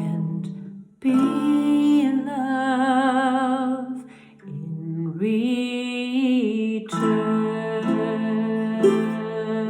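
A solo voice sings long, held notes with vibrato over a strummed and plucked ukulele accompaniment, in a slow ballad, with short breaths between phrases.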